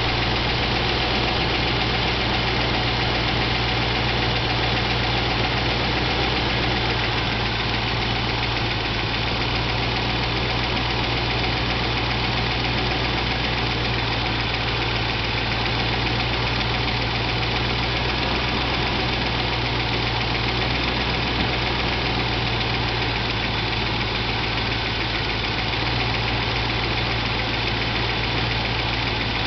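Range Rover Classic's 3.9-litre Rover V8 engine idling steadily, with no revving.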